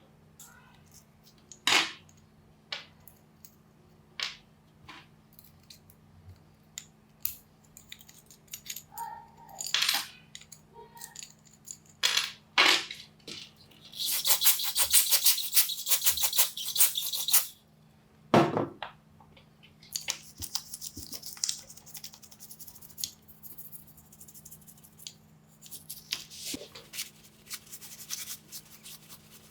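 Small metal parts being handled on a workbench: a string of separate clicks, clinks and knocks. About halfway through comes a few seconds of dense rasping, then lighter scratching, over a steady low hum.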